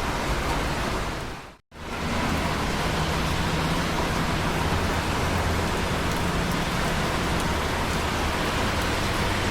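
Steady rain, an even hiss of drops, that fades out to a moment of silence about a second and a half in and comes straight back, as at the join of a looped recording. After the break a low steady rumble runs under the rain.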